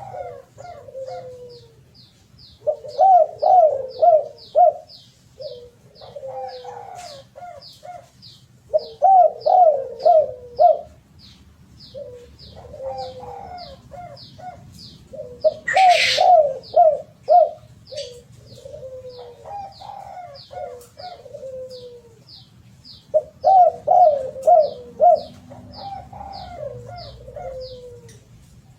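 Spotted dove (derkuku) cooing, in repeated phrases every few seconds. A thin high chirp repeats steadily about twice a second behind it, and one brief sharp noise falls about halfway through.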